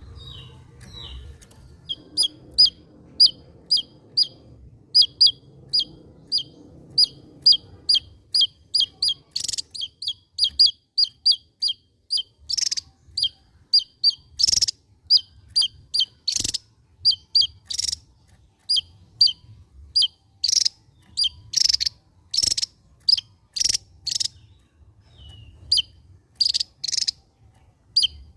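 Javan tesia singing: a long run of short, sharp, high notes, each dropping slightly in pitch, at about two a second, some notes noticeably louder than others.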